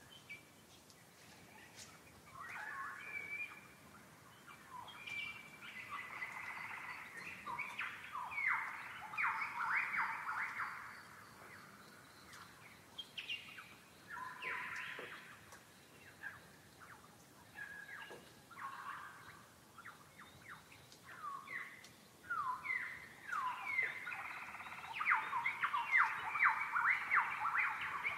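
Birds calling, in quick runs of sweeping notes, with a louder flurry about a third of the way in and another near the end.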